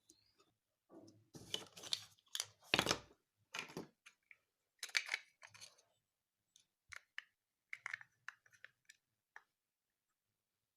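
Irregular clicks and scrapes of a plastic mobile-phone charger case and small parts being handled in repair work. The scraping is busiest in the first few seconds, then thins to scattered single clicks.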